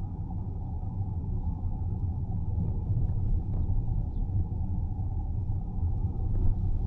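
Steady low rumble of a car driving along a road: tyre and road noise with engine drone.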